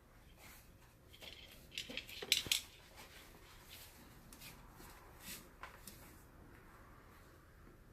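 Scattered light clicks and scrapes of handwork on a leather baseball glove, with a cluster of sharper ticks about two seconds in.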